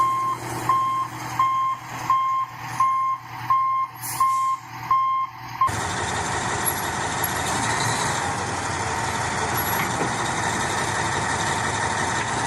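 Heavy truck's reversing beeper sounding a steady beep about every 0.7 seconds. It cuts off suddenly about six seconds in, giving way to steady vehicle running noise.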